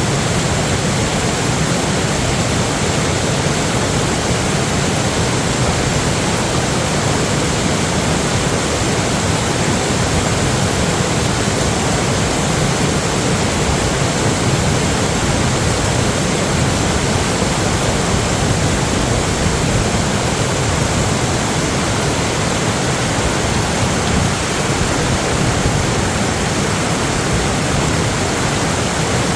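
Steady, loud rushing of water, an even noise with no breaks or changes.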